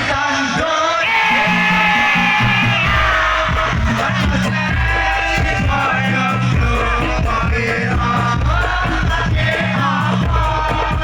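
Amplified sholawat devotional singing: a voice carries a wavering melody over instrumental accompaniment with sustained low bass notes that step from pitch to pitch.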